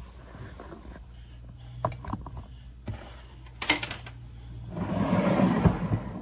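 Kitchen handling sounds at an oven: a few light clinks, a sharp knock, then about a second of rough sliding noise near the end, like a metal oven rack and casserole dish being moved.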